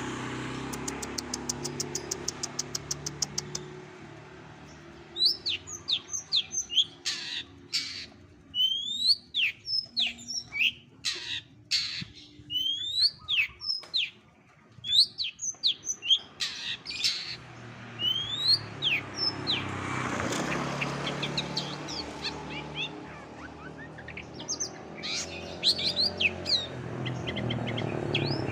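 Long-tailed shrike (cendet) singing a mimicry medley of other birds' calls. A fast run of repeated chirps comes first, then sharp whistles and short loud calls in quick clusters, over a low steady hum.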